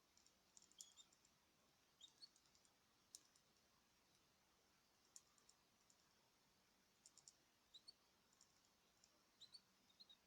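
Faint, scattered short high chirps and clicks from small caged birds, coming irregularly in little clusters.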